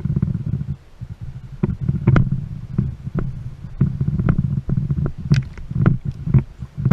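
Low, uneven rumbling with irregular sharp knocks and slaps, as from a fishing boat rocking and bumping on choppy water.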